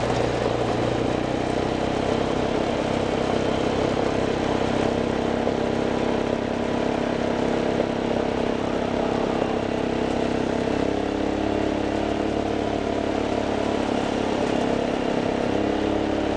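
A vehicle's engine running steadily during a ride, its pitch shifting about eleven seconds in.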